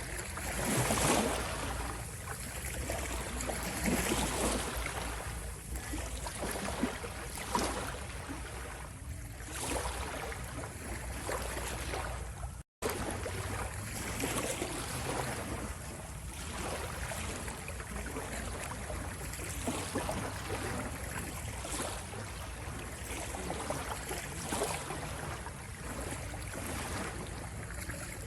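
Ocean waves washing and surging in a continuous hiss that swells and eases every few seconds. The sound cuts out for an instant about halfway through, then carries on as before.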